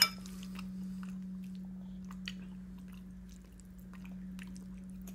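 Toddler chewing pasta with her mouth, faint wet clicks and smacks scattered throughout, with a sharp click right at the start. A steady low hum runs underneath.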